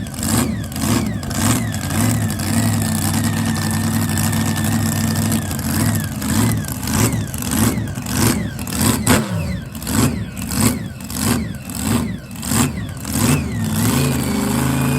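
Racing jet boat engine running loud and being revved in quick repeated blips, about two a second. It holds a steadier note for a few seconds early on, then goes back to blipping.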